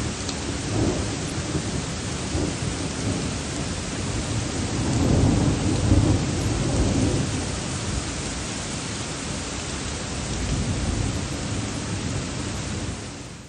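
Heavy rain with thunder rumbling in rolling swells, loudest about five to seven seconds in, then cutting off suddenly.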